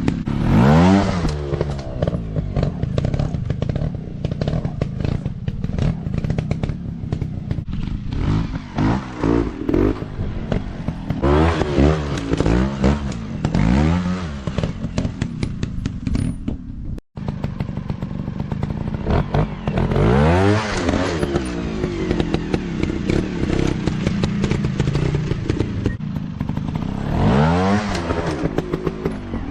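Dirt bike engines revving hard again and again, the pitch rising and falling with each burst of throttle, with some clatter over the top. The sound drops out for an instant a little past halfway.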